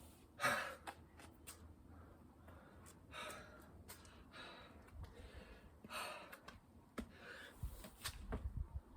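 A person breathing hard from exertion during a burpee and chin-up workout: a loud gasp about half a second in, then heavy breaths about every second and a half, with a few small clicks and knocks.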